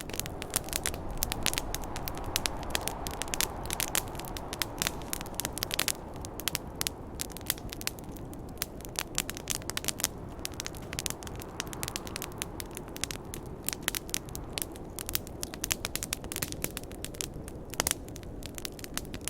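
Wood campfire crackling with many sharp pops and snaps, over a low rushing snowstorm wind that swells and eases.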